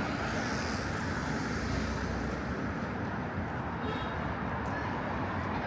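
Steady road traffic noise: the continuous rumble of vehicles passing on a city street.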